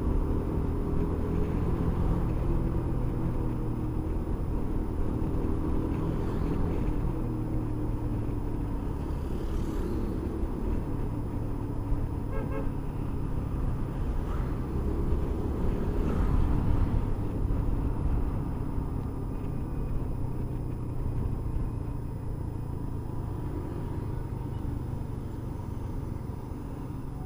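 Motorcycle engine running steadily while riding along a road, its pitch rising and falling gently with speed.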